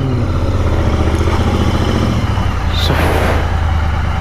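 Royal Enfield Continental GT 650's parallel-twin engine running steadily at low revs, with a brief sharp hiss about three seconds in.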